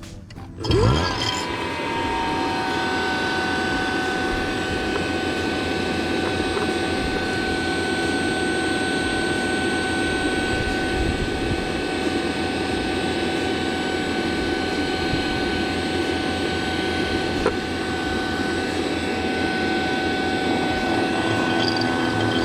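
A motor-driven machine starts about a second in, its pitch rising quickly as it spins up, then runs steadily with a constant whine over a mechanical drone.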